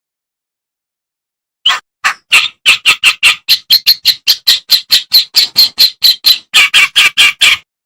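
Kerak basi (reed warbler) singing: after nearly two seconds of silence, a fast, even string of short, harsh, scratchy notes, about four a second.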